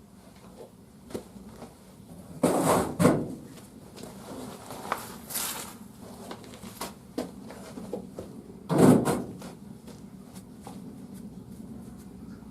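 Heavy knocks and clunks from work at a wood-fired bathhouse boiler: a double clunk about two and a half seconds in and the loudest one near nine seconds, with lighter clicks between, over a steady low hum.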